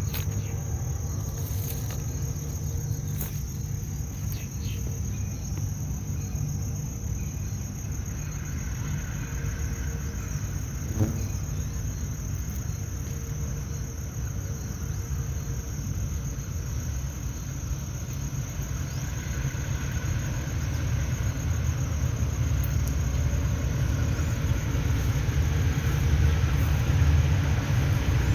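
Train passing on the rails: a steady low rumble of wheels and wagons that grows louder toward the end, with one short sharp knock about eleven seconds in.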